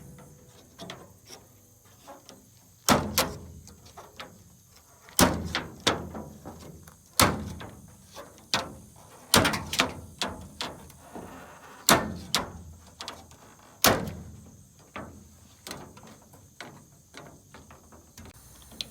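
Irregular sharp knocks, clacks and rattles as body trim is pried and worked loose from a truck with a plastic trim tool. About six loud knocks come roughly two seconds apart, with smaller clicks between them.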